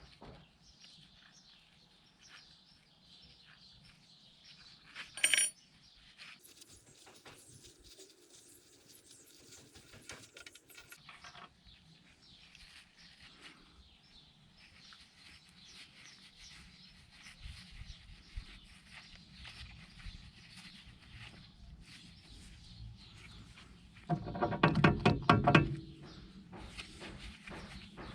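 Metal tools and car parts handled during front wheel bearing disassembly: quiet scraping and handling, a single sharp metallic clink about five seconds in, and near the end a loud burst of rapid metallic clicking lasting about two seconds.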